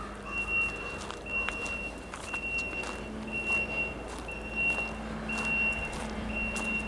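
A vehicle's backup alarm beeping steadily, about one beep a second, over the low hum of an engine running.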